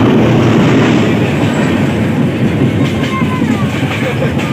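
Steady running noise of a moving passenger train, heard from inside the carriage at an open window: a dense, continuous rumble of wheels on the track.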